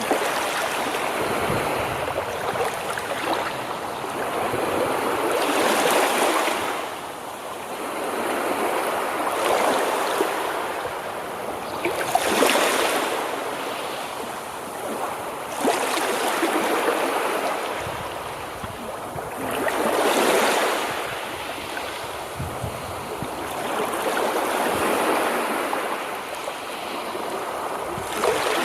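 Sea surf on a shore: waves breaking and washing in one after another, the rush of water swelling and falling away every three to five seconds.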